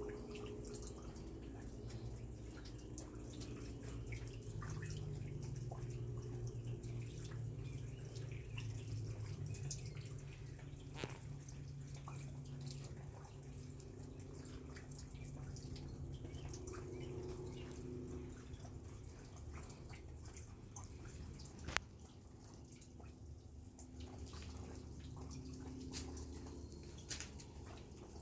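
Rain dripping: scattered single drops ticking at irregular intervals over a steady low hum.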